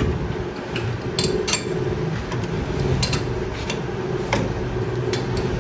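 Scattered sharp metal clinks and taps, about half a dozen, over a steady low machine hum.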